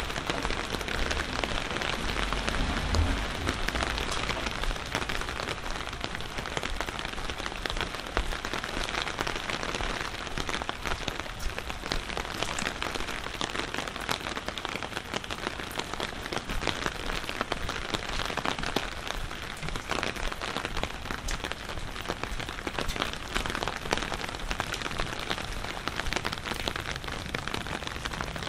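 Steady rain falling, with dense small drops hitting close by, and a low rumble in the first few seconds.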